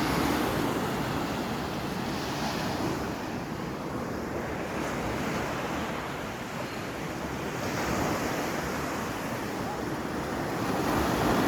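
Ocean surf washing onto a beach, a steady rush that swells slightly about eight seconds in and again near the end.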